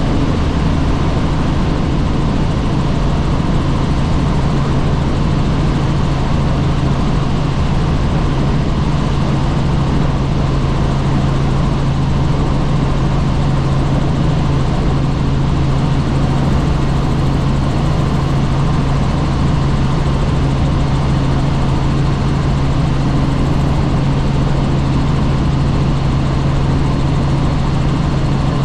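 Helicopter in flight heard from on board: a loud, steady drone of rotor and engine with a low hum and rushing noise, unchanging throughout.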